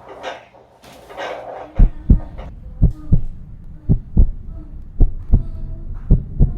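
Heartbeat in a steady lub-dub rhythm, paired low thumps a little under once a second, starting about two seconds in.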